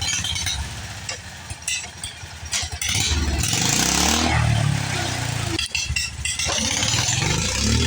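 Jacobsen lawn tractor engine running, quieter for the first few seconds and then revved hard, its pitch rising and falling.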